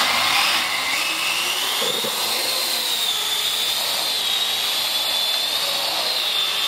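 Parrot AR.Drone quadcopter's four propellers and electric motors spinning up just after start: a high whine rises in pitch over the first two seconds or so, then holds steady with slight wavering over a rushing propeller noise.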